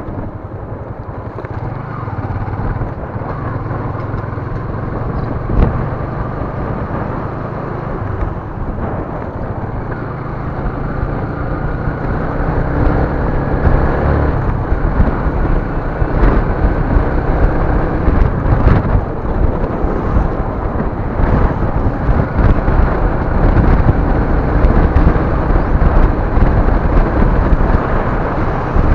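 A motor vehicle running with road noise and a low rumble, growing louder over the second half, with a few faint rising and falling tones.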